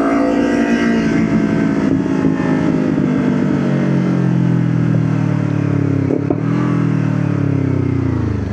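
Motorcycle engine decelerating with the throttle rolled off, its note falling slowly and steadily, then dropping faster near the end as the bike slows.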